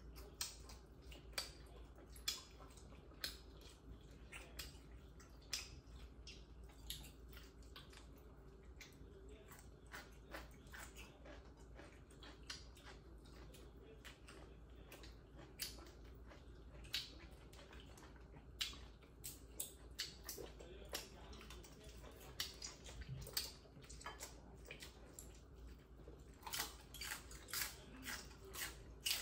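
Eating sounds: chewing and lip-smacking as pork offal and raw vegetables are eaten, a string of short wet clicks about once or twice a second, coming thicker near the end.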